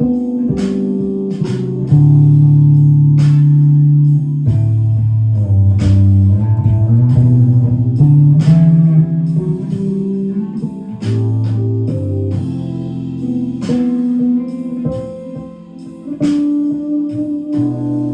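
Clean-tone electric guitar improvising a melody in A minor, plucked notes with some held and sustained.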